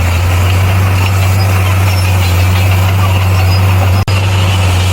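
Bulldozer's diesel engine running with a steady low drone, cutting out for an instant about four seconds in.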